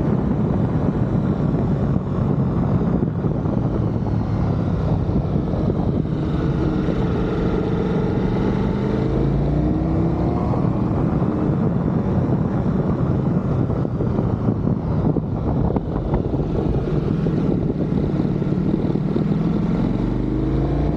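Ducati Multistrada V4 motorcycle's V4 engine running under way, its pitch falling and rising again near the middle as the revs change, with wind rushing over the microphone.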